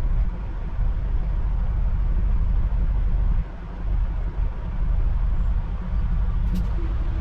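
Dump truck running down the road: a steady low engine and road rumble that dips briefly about three and a half seconds in.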